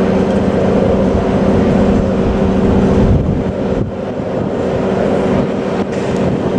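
A heavy diesel engine running close by with a steady, loud hum over traffic noise, loudest about two to three seconds in and easing off a little after that.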